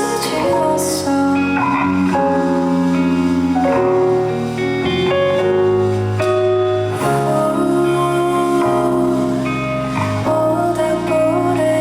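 Live band music with guitar playing a slow, gentle song.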